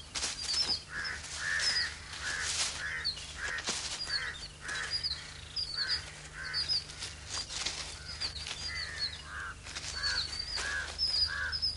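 Several birds calling over and over: harsh, cawing calls about twice a second mixed with many short high chirps, over a faint steady low hum.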